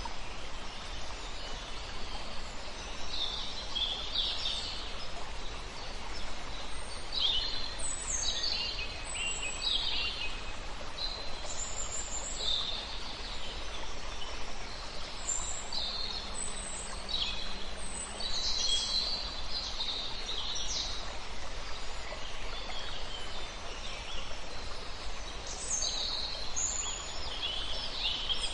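Several songbirds singing and chirping in short, quick phrases of high notes, over a steady rushing background of river water.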